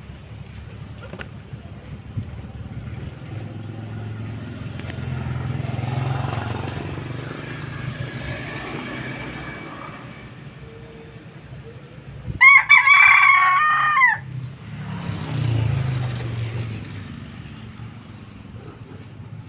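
A rooster crows once, a loud call lasting under two seconds about two-thirds of the way in. Beneath it runs a steady low rumble with faint chicken sounds.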